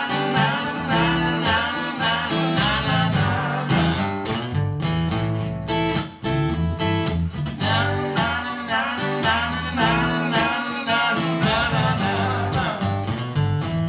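Live acoustic guitar strumming chords under a bending, wavering lead melody line, an instrumental passage of a country-blues song with no sung words.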